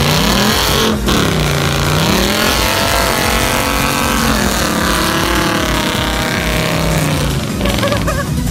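Ford Mustang GT's 5.0-litre V8 revving as the car spins its wheels and slides through snow doing donuts. The engine pitch dips and climbs again in the first couple of seconds, then holds a wavering drone with slow rises and falls.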